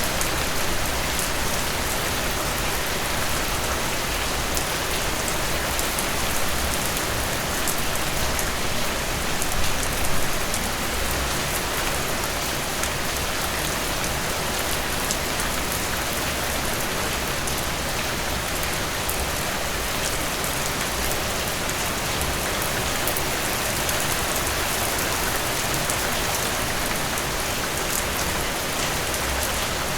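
Heavy rain falling steadily: a dense, even hiss made of many close drop hits, briefly a little louder about ten seconds in.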